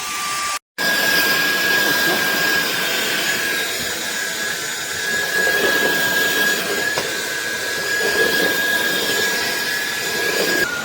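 SunSare X7A cordless stick vacuum cleaner running: a steady high motor whine over rushing air, with a momentary dropout under a second in.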